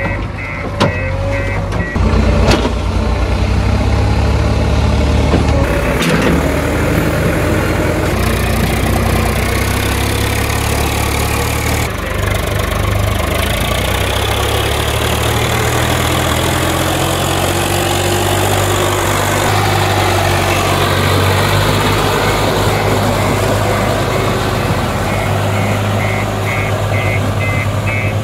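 Heavy diesel engines of a tractor and a JCB 3DX backhoe loader running hard and continuously, their pitch rising and falling, with a few sharp knocks in the first few seconds.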